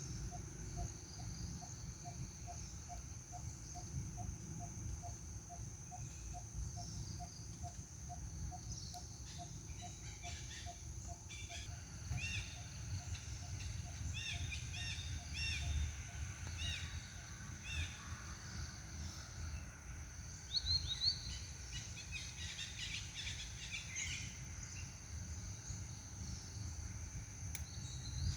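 Outdoor ambience of insects and birds: a steady high insect drone, a run of evenly spaced low notes about three a second for the first ten seconds, then clusters of short chirps, over a low rumble.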